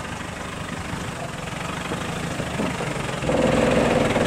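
Land Rover Defender's engine running at low revs as it crawls through deep mud, then louder with a stronger engine note about three seconds in as the front wheel climbs out of the rut.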